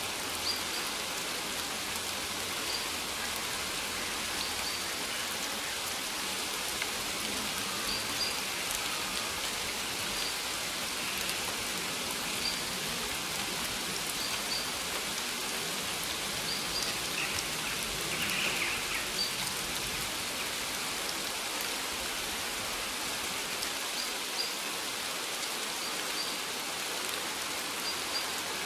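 Steady rain falling on maize plants, an even hiss of drops on the leaves. A brief, slightly louder sound stands out about two-thirds of the way through.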